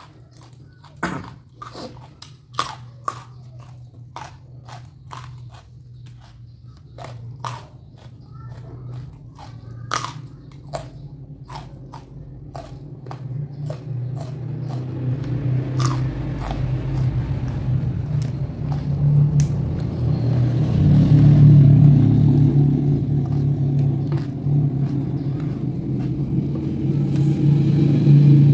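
Chewing and biting of crunchy raw food close to the microphone, with sharp crunches coming several times a second. From about halfway a low rumble builds up and grows louder toward the end.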